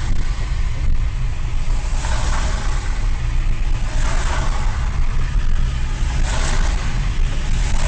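Car driving, heard from inside the cabin: a steady engine and road rumble with a noisy hiss that swells and eases every couple of seconds.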